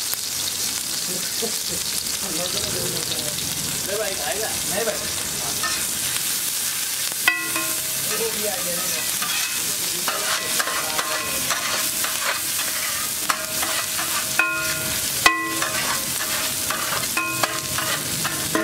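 Chopped onion, tomato and green chilli sizzling in oil on a large flat metal griddle, with a flat metal spatula scraping through it. From about seven seconds in, the spatula strikes the griddle again and again with sharp, ringing metallic clanks, the loudest two about eight seconds apart.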